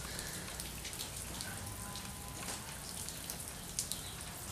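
Steady rain falling, an even hiss with a scatter of sharp drip ticks.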